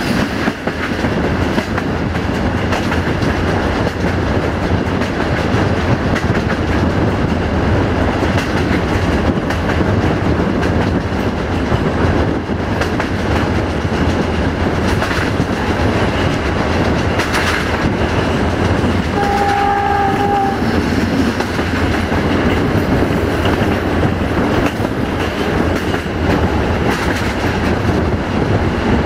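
A passenger train running on the line, heard from aboard: a steady rumble with wheel clicks over rail joints. About two-thirds of the way through, the locomotive's horn sounds once, for about a second.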